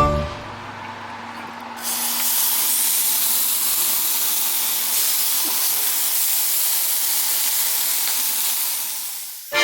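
Meat sizzling on a hot iron griddle plate: an even, steady hiss that jumps up in level about two seconds in and then holds.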